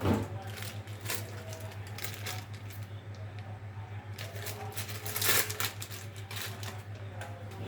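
Kitchen clatter of dishes and utensils being handled: scattered clicks and taps, with a sharp knock right at the start and another about five seconds in, over a steady low hum.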